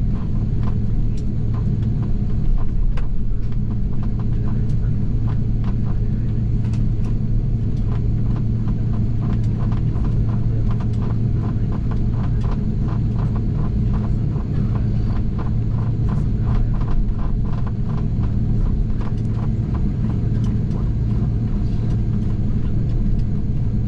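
Cabin noise inside an Airbus A330-300 on the ground before takeoff: a steady low rumble of the airliner's engines. Through the middle, light regular clicks come about two to three a second.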